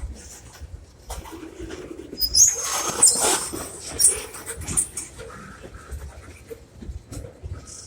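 Freight cars rolling past on the track, with irregular clanks and clicks from the wheels and a short spell of high-pitched wheel squeal a little over two seconds in.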